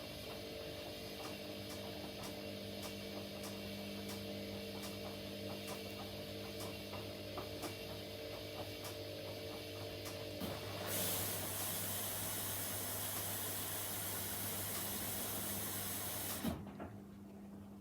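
Washing machine running mid-cycle with a steady motor hum and faint regular ticking. About eleven seconds in, a loud hiss of water rushes in for several seconds, then cuts off sharply with a thump, as when the inlet valve shuts.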